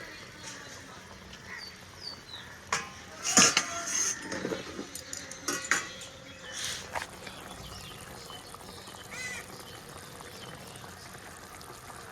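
Clatter of a cooking pot and utensils, with a few sharp metal knocks and scrapes about three to five seconds in, as the covered pot of chicken is opened and checked. Faint bird chirps sound in the background.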